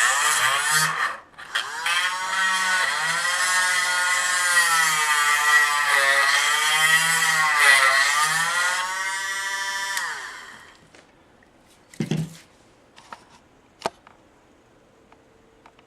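12-volt electric chainsaw sharpener running and grinding a chain tooth, its motor pitch sagging and recovering as it is pressed on and eased off, with a short break about a second in. It stops about ten and a half seconds in, followed by a few light clicks and knocks.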